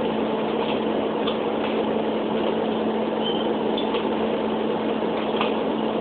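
A refrigerator-freezer running: a steady mechanical hum with one constant low tone throughout and a few faint ticks.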